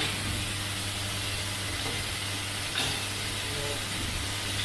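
Automatic centrifugal fan impeller assembly machine running: a steady hum under a broad hiss, with one sharp clack a little under three seconds in.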